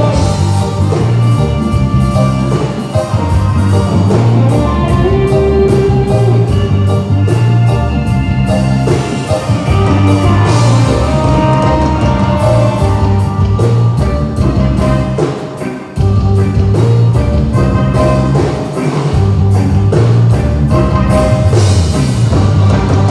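Live band playing loud music through a PA system, with a steady drum beat and heavy bass; the music drops out briefly about sixteen seconds in.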